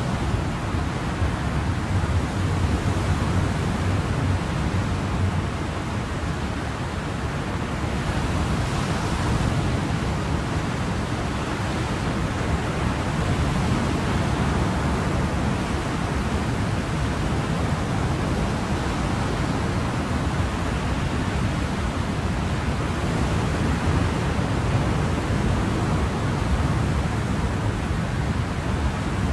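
Ocean surf: a steady, continuous wash of waves, with a brief swell in the hiss about eight to ten seconds in.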